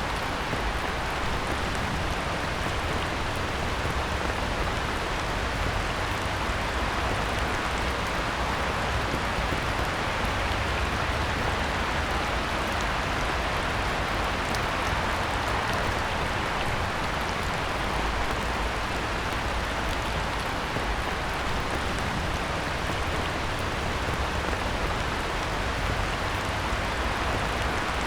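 Heavy rain falling on a pond's surface, a steady, even downpour.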